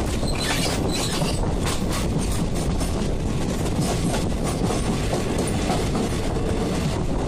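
Two Indian Railways passenger trains passing side by side: steady rumble and clickety-clack of steel wheels over the rail joints, from the blue passenger coaches running close alongside and from the moving train itself, heard through its open window. The clatter is densest in the first couple of seconds.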